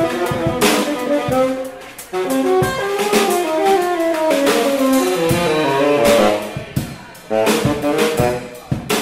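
Jazz band playing: a saxophone line with a falling run of notes in the middle, over guitar and drum kit.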